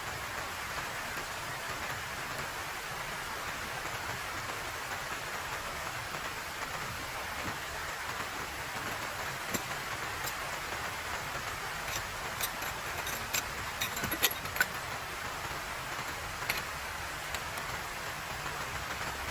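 Steady rain falling, with a cluster of sharp ticks and taps about halfway through.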